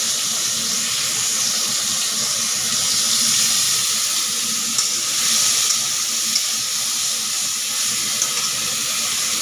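Prawns frying in hot mustard oil in a kadai: a steady sizzle with a few small pops.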